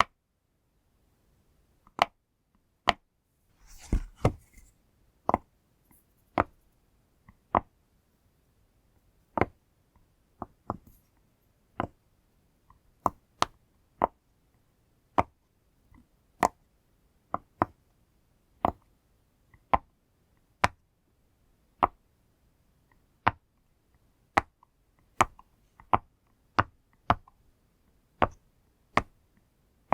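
Push-pop fidget toy's bubbles being pressed one at a time: sharp, crisp pops at an uneven pace of about one a second. There is a brief rustle of handling about four seconds in.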